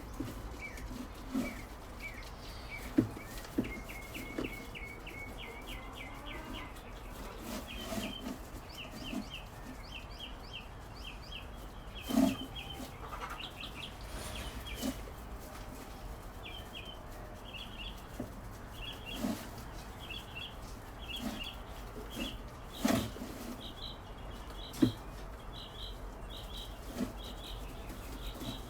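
Birds chirping in quick runs of short high notes, repeated over and over, with a few scattered dull knocks.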